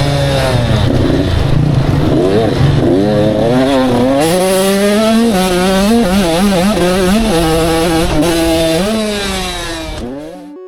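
85cc two-stroke motocross bikes running hard, engine pitch rising and falling over and over with throttle and gear changes. The sound falls away near the end.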